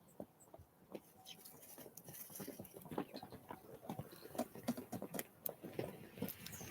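Small birds pecking and scrabbling on a feeding spot: faint, irregular light taps and scratches that grow busier about two seconds in.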